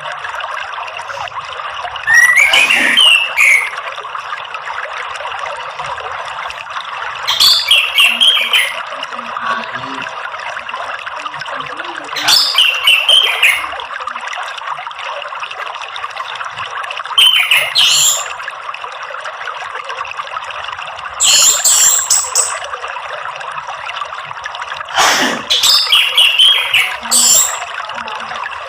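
Orange-headed thrush singing short warbled phrases, six of them, one about every four to five seconds, over a steady sound of trickling water.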